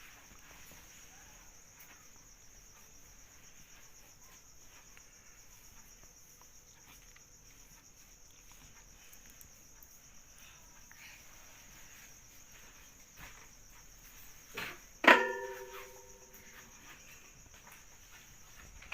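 Steady high-pitched chirring of crickets or similar insects. About 15 seconds in, one loud sharp knock rings on briefly with a clear tone.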